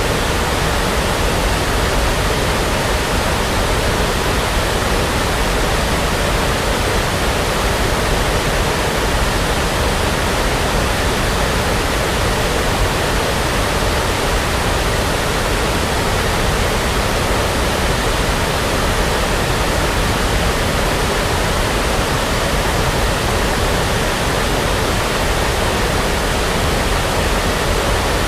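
Steady brown noise: an even, unchanging rush of noise.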